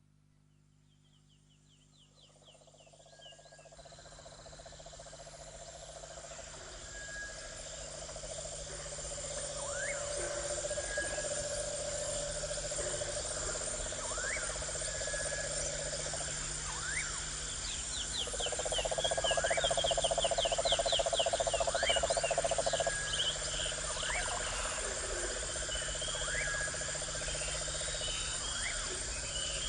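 Chorus of frogs and insects: a steady high insect buzz, long low pulsing frog trills, and short rising calls every couple of seconds, with runs of quick chirps above. It fades in over the first several seconds.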